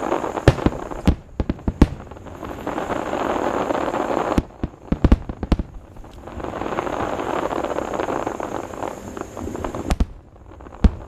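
Fireworks display: aerial shells going off in quick clusters of sharp bangs, three times, with a rushing noise that swells and fades between the clusters.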